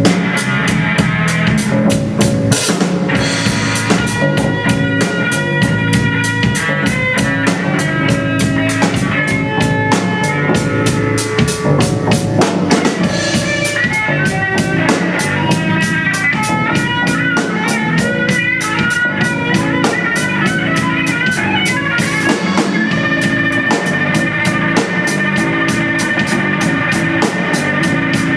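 Band music with a drum kit keeping a steady beat under an amplified lead instrument playing fast, shifting runs.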